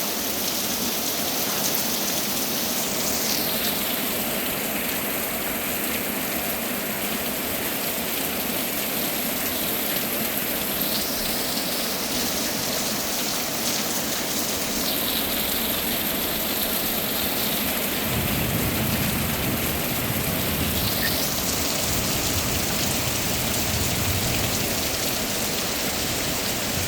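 Heavy rain pouring down in a steady downpour. A low rumble joins the rain about two-thirds of the way in.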